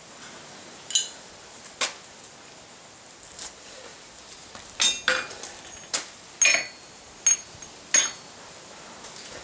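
Steel tools and workpiece knocking and clinking together in irregular single strikes, about nine in all, several with a short high metallic ring. The strikes come close together in the second half.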